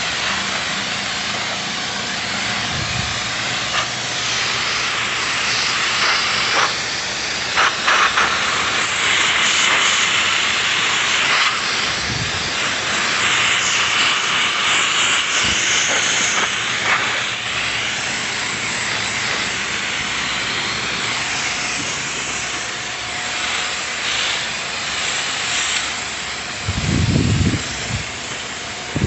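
A steady, loud hiss with a few scattered knocks, and a low rumble near the end.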